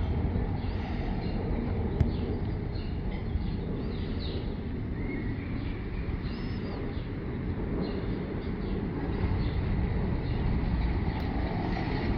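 A steady low rumble, like wind or distant traffic, with small songbirds chirping and twittering over it and a single click about two seconds in.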